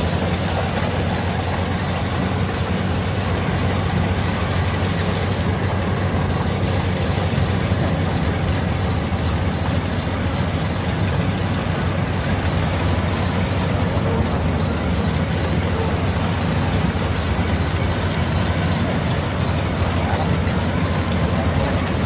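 LOVOL AF88 rice combine harvester running steadily, its engine drone continuous and unchanging.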